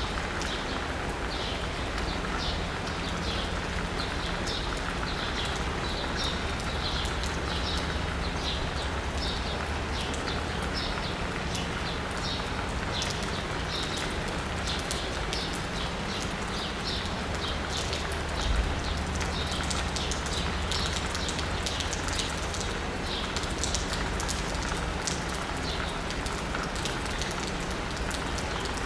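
Steady rain falling on asphalt and rooftops, with birds chirping in short high notes throughout, over a low steady hum of city traffic. A brief low thump comes about two-thirds of the way through.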